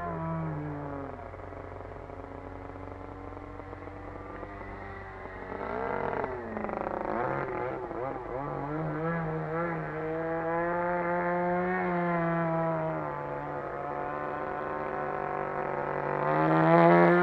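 RCGF 20cc single-cylinder two-stroke petrol engine of a Seagull Harrier 3D model plane in flight. Its pitch rises and falls with throttle and fly-bys, with a sweeping drop in pitch about six seconds in and the loudest pass near the end.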